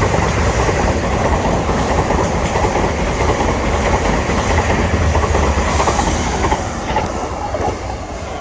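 A train passing close by at speed: a loud rumble and rush of wheels on rail, easing off near the end as it goes by.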